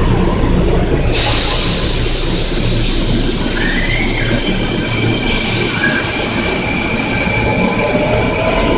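Kintetsu limited express train moving slowly alongside the platform, rumbling steadily. Bursts of high hissing come in about a second in and again around five seconds, with a thin wheel squeal near the end.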